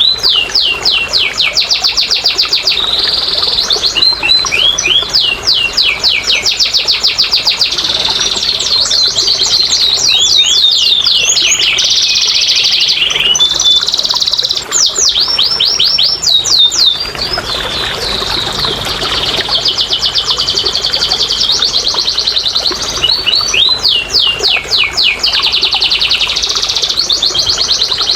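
Domestic canary singing a long, unbroken song of rapid trills and rolls: fast runs of repeated rising and falling notes, switching to a new phrase every second or two.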